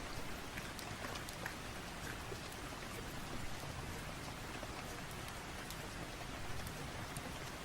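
Steady rain falling: an even hiss with scattered sharp ticks of drops.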